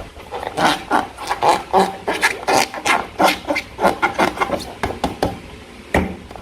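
Slime being squeezed and worked by hand: a quick, irregular run of wet squelches and sticky crackles, several a second, with a sharper click near the end.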